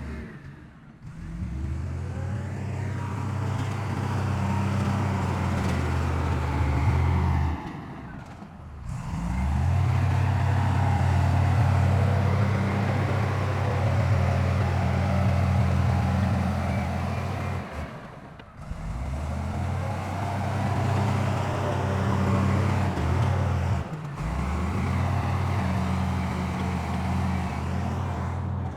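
Heavy diesel engine of earth-moving machinery running steadily at a low, even pitch. The sound briefly drops away four times.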